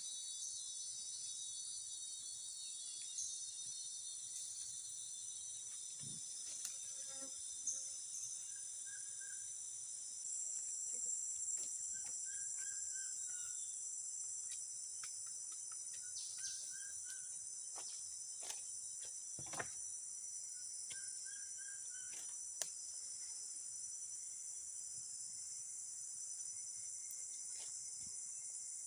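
Steady, high-pitched chorus of insects. Over it a short three-note call repeats every few seconds, and there are a few sharp clicks.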